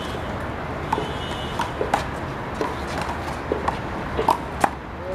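One-wall handball rally: a string of sharp, irregular smacks as the small blue rubber ball is struck by hand and rebounds off the wall and court, the loudest a little past four and a half seconds in, over steady background noise.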